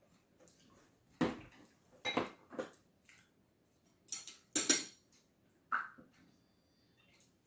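Tableware clattering during a meal: utensils knocking and scraping against dishes in about six short, separate clinks.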